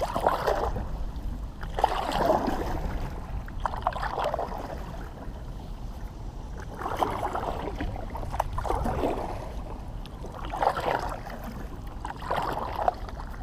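Kayak paddle strokes: the blade splashes and swishes through the water about every two seconds, with a short pause about midway.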